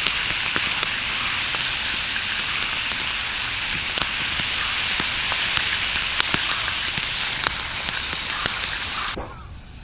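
Meat sizzling on a hot grill, a steady dense hiss with scattered small pops, cutting off suddenly about nine seconds in.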